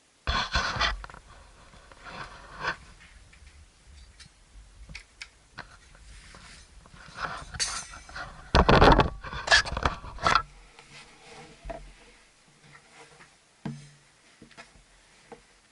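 Metal camp gear being handled: irregular clinks, knocks and clatters, loudest in a run of clattering about nine seconds in.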